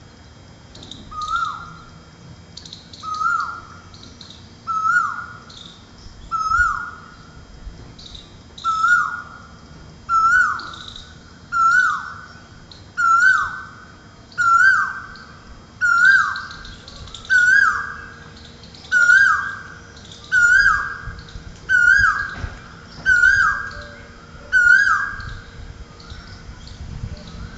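A cuckoo calling, one note repeated about every one and a half seconds, some sixteen times, each note dropping in pitch at its end, the series growing louder through the first half and then holding. Faint high chirps of other birds sound alongside.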